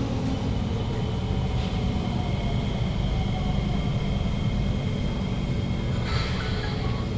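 Interior running noise of a Kawasaki C151 metro car with GTO-VVVF traction equipment: a steady low rumble under two sustained high electrical tones. A short hiss comes about six seconds in.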